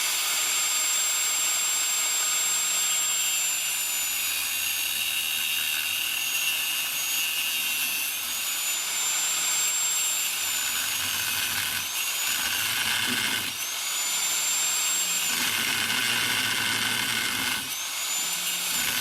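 Corded electric grinder cutting off a metal nub on an EGR cooler: a steady high motor whine with grinding hiss, its pitch sagging as the disc bites into the cut and climbing back when eased off, several times in the second half.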